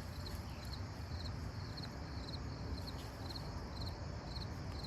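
Crickets chirping steadily, short high chirps repeating about two to three times a second, over a low outdoor rumble.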